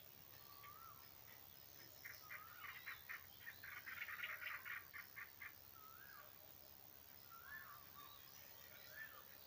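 Birds calling: a fast trill of rapid repeated notes lasting about three and a half seconds, and a short rising-and-falling call note repeated every second or two. The sounds are faint.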